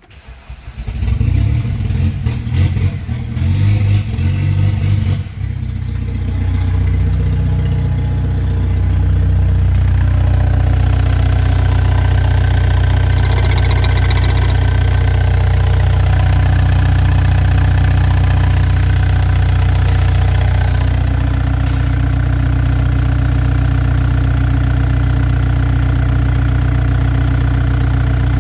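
Opel Y20DTH 2.0 four-cylinder turbodiesel engine starting and running rough and uneven for the first five seconds, then settling into a steady idle.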